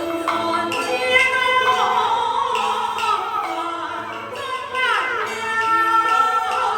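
Beiguan Fulu opera music: a voice singing with sliding pitch over traditional instrumental accompaniment.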